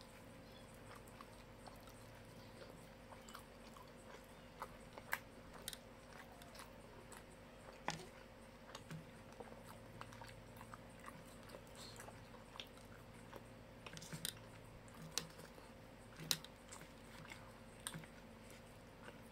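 Faint chewing and biting of fried chicken and rice eaten by hand, with scattered soft clicks and small crunches. A steady low hum sits underneath.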